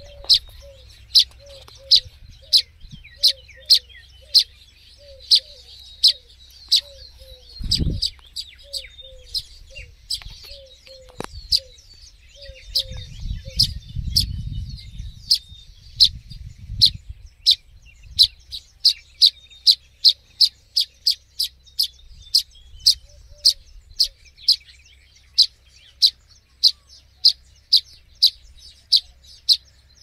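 Fledgling songbird chirping close by: loud, sharp, high single chirps repeated one to two a second, coming quicker in the second half. Under them, during the first half, a lower bird note falls repeatedly about twice a second. A low rumble about eight seconds in and another around the middle may be wind or handling.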